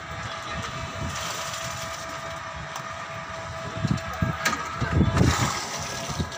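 A steady machine hum under a noisy hiss, with a few dull low thuds and a sharp click about four and a half seconds in.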